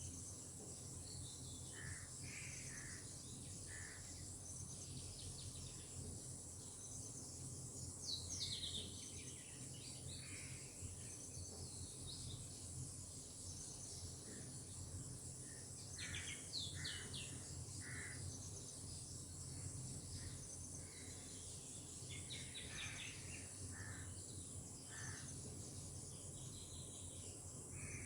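Birds calling in short scattered chirps and quick falling phrases, loudest about eight seconds in and again around sixteen seconds, over a steady high insect drone and a faint low background rumble.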